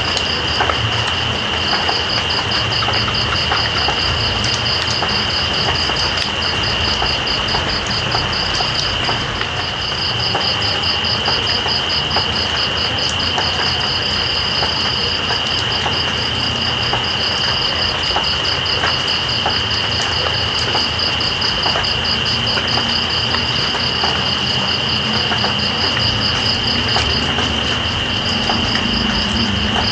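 Steady rain with night insects calling over it: one continuous high trill and a second, rapidly pulsing chirp that pauses briefly a few times.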